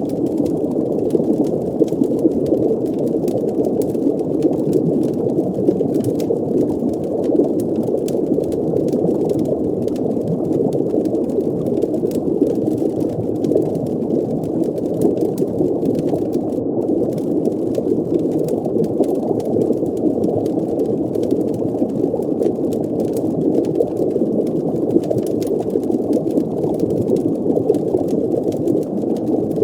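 Muffled underwater ambience: a steady low bubbling rumble of water, with faint scattered crackles over it.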